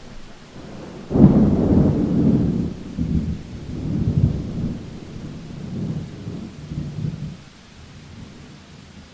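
A clap of thunder breaks sharply about a second in and rumbles on in several rolling swells, dying away after about six seconds, over steady rain.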